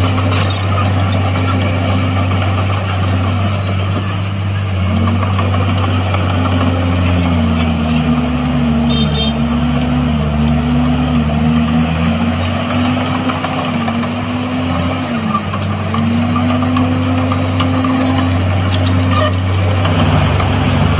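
Heavy earthmoving machine's engine running steadily, with a deep hum and a higher note that dips and rises repeatedly through the middle as the engine speed changes.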